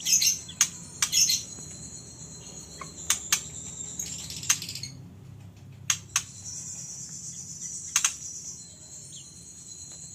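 White-rumped shama (murai batu) giving short, sharp chirps and clicking calls at irregular intervals. A steady high insect buzz runs underneath.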